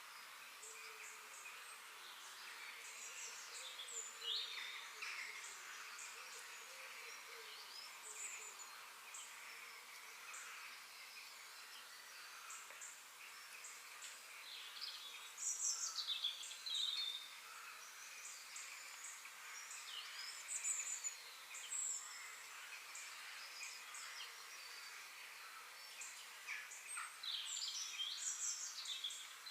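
Several birds chirping and calling in quick short notes and sweeps, over a faint steady outdoor hiss. The calls grow louder for a few seconds about halfway through and again near the end.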